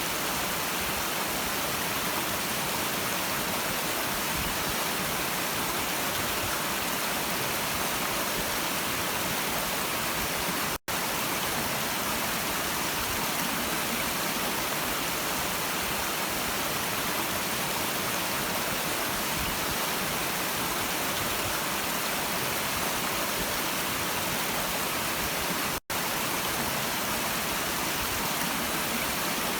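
Stream water rushing, a steady, even roar of running water. It cuts out for an instant twice.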